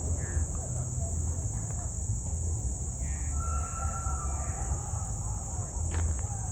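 Steady high-pitched chorus of insects, crickets by the sound of it, chirring without pause, over a low rumble, with a few faint bird chirps near the middle.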